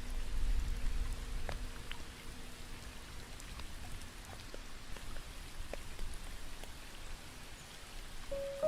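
Steady rain falling, with scattered individual drops ticking. A low held piano note dies away over the first few seconds, and piano notes start up again just before the end.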